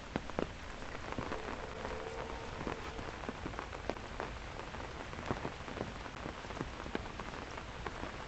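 Steady rain falling, with many sharp individual drop taps scattered through it.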